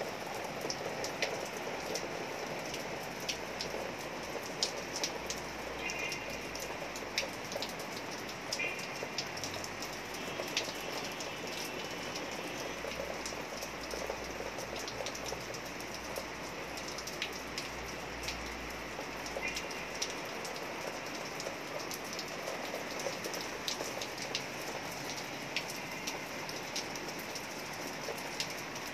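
Heavy rain falling steadily, with frequent sharp ticks of drops striking hard surfaces close by.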